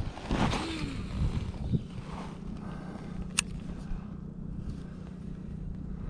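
A steady low motor hum, with a few knocks in the first two seconds and one sharp click about three and a half seconds in.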